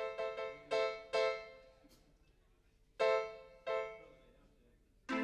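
Keyboard played with a piano sound, trying out a few separate chords that ring and die away, in a quick cluster near the start and two more after a pause.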